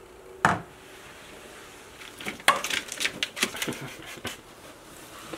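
A single knock, then about two seconds of quick clicks, taps and rattles of hard objects being handled.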